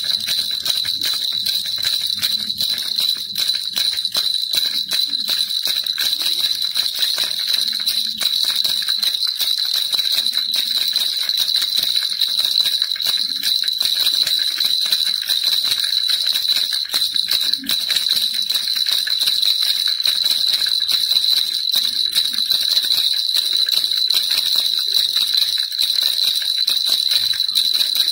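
Baby rattle shaken without pause: a dense, steady jingling with a constant high ringing tone over fast fine clicks.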